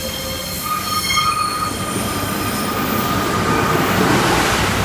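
Diesel railbus passing at close range over a level crossing. High wheel squeal sounds for the first second or so, then the rumble of wheels and engine builds, loudest near the end as the coaches go by.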